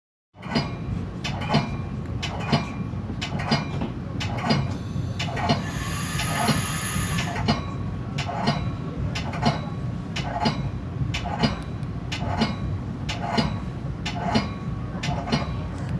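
Metra commuter train running on the rails, a steady rumble with the wheels clicking over rail joints about once a second. A brief high ringing squeal comes in about six seconds in.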